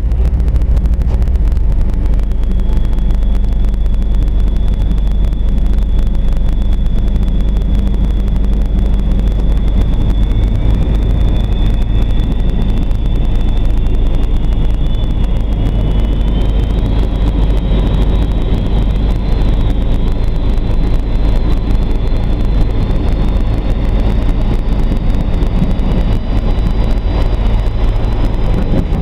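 Daewoo Sprinter diesel railcar heard from the driver's cab: a steady diesel engine drone. A thin high whine sets in a couple of seconds in and climbs slowly in pitch as the train picks up speed.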